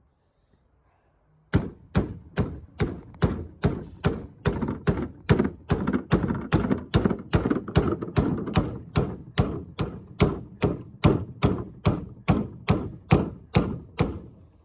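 A hammer striking again and again at an even pace, about two blows a second, starting about a second and a half in and stopping near the end. The blows are driving the mini hatchet's head onto its newly made wooden handle.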